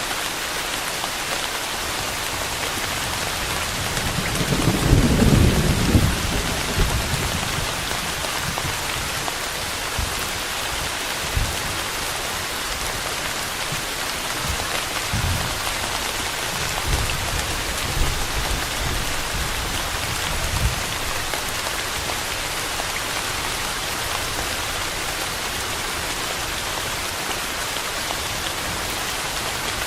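Steady rain falling, an even hiss throughout. A low rumble of thunder swells about four seconds in and fades by about seven seconds, with fainter low rumbles later on.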